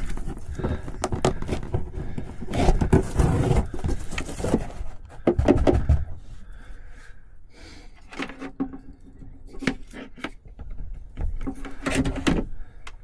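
Rustling, scraping and knocking of gear being handled in a cramped space, with many short clicks and knocks, busiest in the first half.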